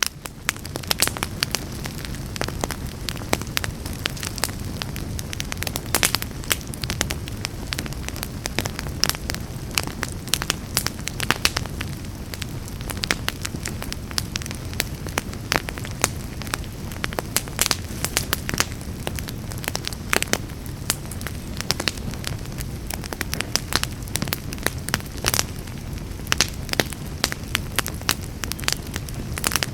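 Fire in a fireplace crackling, with frequent sharp pops and snaps scattered over a low, even rumble of flames.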